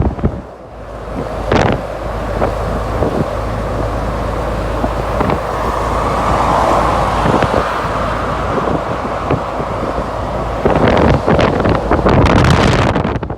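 Jet engines of an Airbus A380 on its landing approach: a broad rushing roar that swells to a peak about halfway through and then fades. Wind buffets the microphone throughout, heaviest in the last few seconds.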